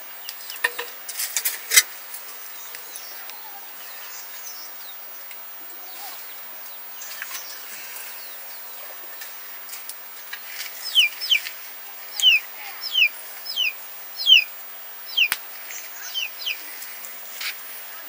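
A bird calling in a run of short, high chirps that each slide downward, about one or two a second, through the second half. A few sharp taps or clicks come near the start.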